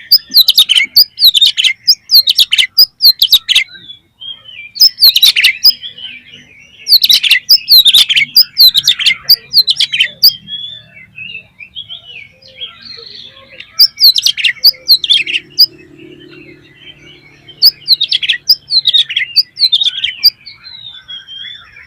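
Oriental magpie-robin (kacer) singing loud, rapid phrases of varied whistles and chirps, each phrase a second or a few seconds long with short pauses between them.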